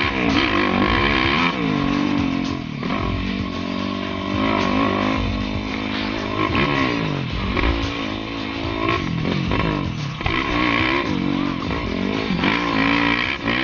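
Yamaha YFZ450R quad's single-cylinder four-stroke engine through a Rossier aftermarket exhaust, revving up and backing off again and again under riding.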